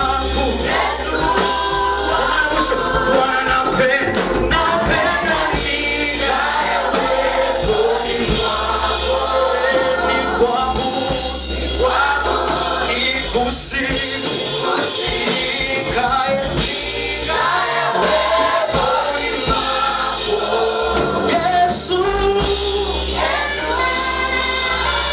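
A choir singing gospel praise music with band accompaniment and a steady bass line.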